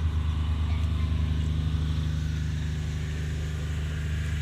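Police patrol boat's engine running at a steady speed, a low continuous drone.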